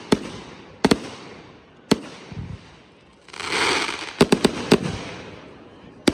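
Consumer fireworks going off. Single sharp bangs come about a second apart, each with a long echoing tail. About three seconds in there is a second-long hissing rush, then a quick run of three more bangs.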